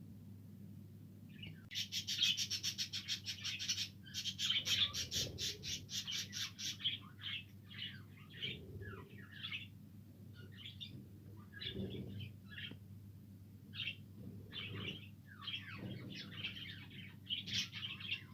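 Flock of budgerigars chirping and chattering. A fast run of rapid chirps comes about two seconds in and lasts several seconds, then gives way to scattered shorter chirps.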